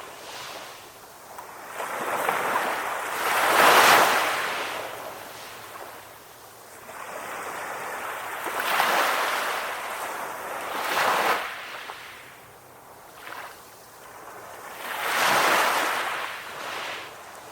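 Ocean waves washing onto a shore, each wave swelling into a hissing surge and falling back, about four or five surges with the strongest near the start and another about three quarters of the way through.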